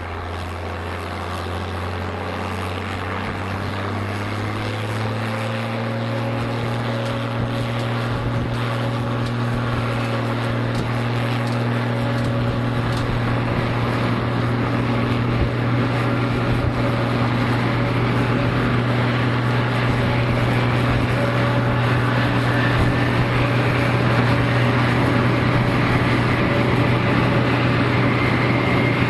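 F-86 Sabre's jet engine running on the ground and spooling up. Its low hum and whine rise in pitch over the first several seconds, then settle into a steady drone, while a high whine keeps climbing slowly and the engine grows louder throughout.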